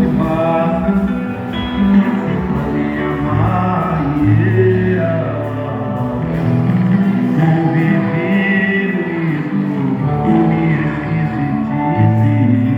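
Live band music with a singing voice and plucked guitar, steady and loud throughout.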